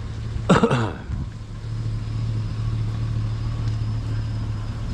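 Vehicle engine idling, a steady low hum heard from inside the cab. About half a second in comes a short wordless vocal sound from a man, falling in pitch.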